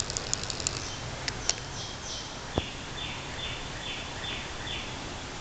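Birds chirping: a quick run of high ticks in the first second, a sharp click a little past halfway, then a string of about five short falling chirps, roughly two a second, over a steady outdoor hiss.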